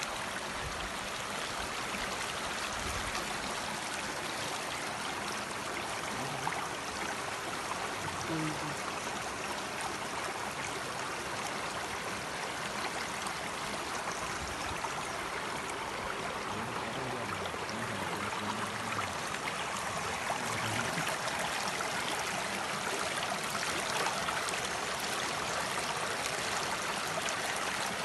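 Steady rush of a flowing stream, an even, unbroken noise of running water.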